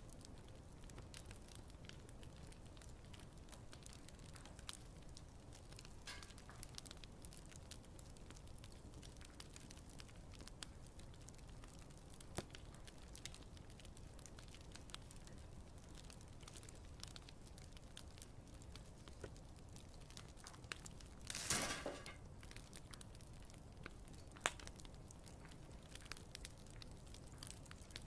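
Wood fire crackling faintly: scattered small pops and snaps over a low steady rumble. A short, louder hissing crackle comes about two-thirds of the way in, followed soon after by one sharp pop.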